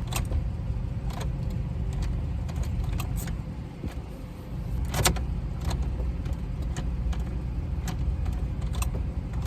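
Car keys jangling, with scattered sharp clicks as the key is worked in and out of the ignition of a car that is reluctant to start, and a steady low rumble underneath.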